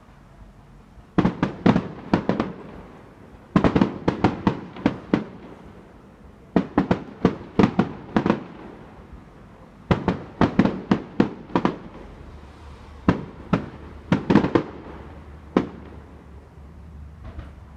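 Fireworks going off in quick volleys of sharp bangs, about five to seven bangs per volley. There are five volleys, roughly three seconds apart.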